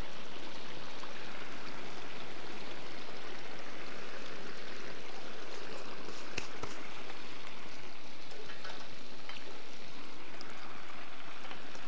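Beef tripe frying in its own rendered fat in a kazan: a steady sizzling hiss, with a few sharp pops about halfway through.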